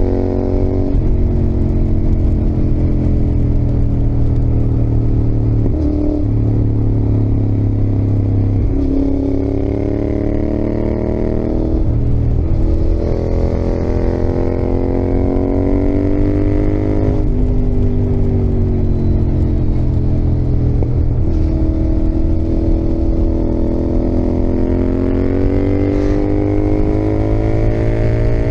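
Yamaha XSR700's CP2 689 cc parallel-twin engine under way, its pitch climbing and falling repeatedly as the bike is ridden, with about six brief breaks where the revs drop back.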